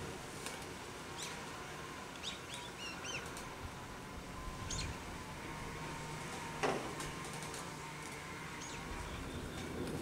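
Birds chirping now and then in short calls over a steady low rush of wind in the trees, with one sharp click about two-thirds of the way in.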